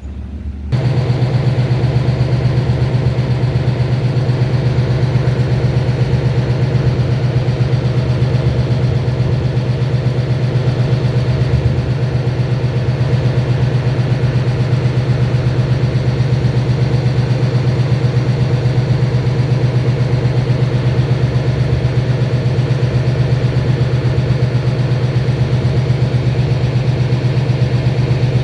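Engine running steadily at constant speed: a loud low hum with a fast even pulsing that starts suddenly about a second in.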